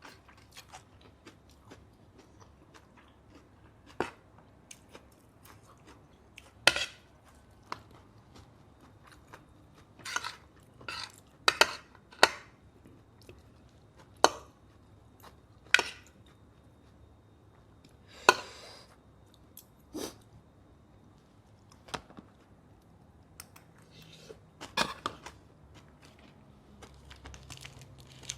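Close-miked eating: cutlery clicking and scraping against a plate in irregular sharp taps, between spells of chewing a mouthful of grilled pork salad and rice.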